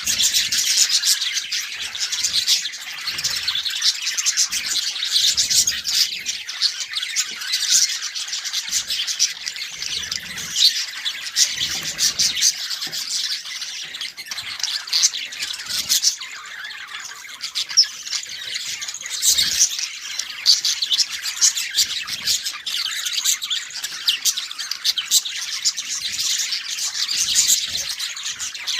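Several budgies (budgerigars) chirping and chattering together in a dense, continuous warble, with sharper squawks mixed in and occasional soft low thumps.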